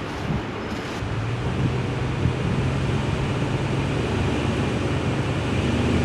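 Pickup truck engine running at low speed, a steady low hum that comes up about a second in, as the truck is eased forward onto levelling blocks under its left wheels.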